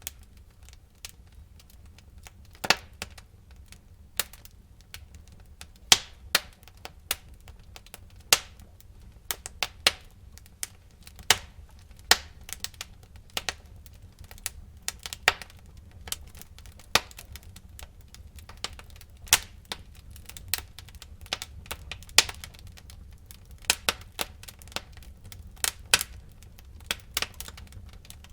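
Burning firewood crackling in a fireplace: irregular sharp pops and snaps, several a second, over a low steady rumble of the fire.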